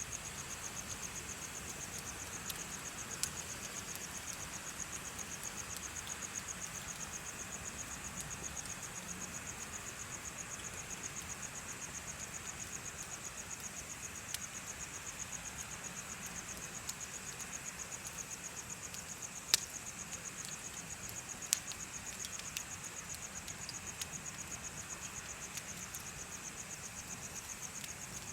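Crickets chirping in a steady, fast-pulsing, high-pitched trill, with a few sharp pops from a crackling bonfire; the loudest two come about two-thirds of the way through.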